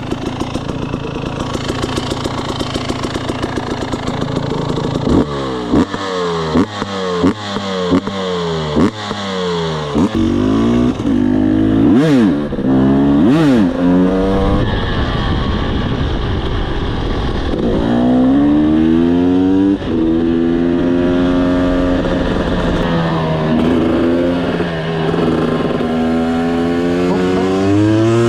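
Husqvarna TE300i single-cylinder two-stroke enduro engine idling with a fast, even beat, then blipped in a quick series of short sharp revs about five seconds in. Two bigger revs follow, and from about two-thirds of the way through the engine rises to steadier revs that waver up and down.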